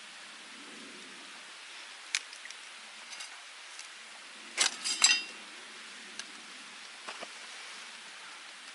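Small wood fire in a metal camp stove: scattered sharp crackles over a steady faint hiss, with a metallic clink that rings briefly about five seconds in.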